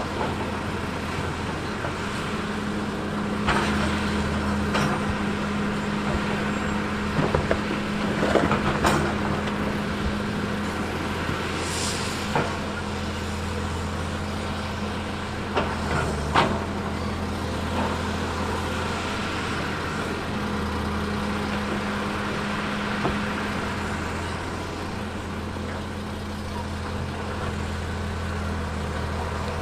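Diesel engine of heavy earthmoving machinery running steadily, with scattered metallic clanks and knocks, the loudest cluster about eight to nine seconds in, and a short hiss about twelve seconds in.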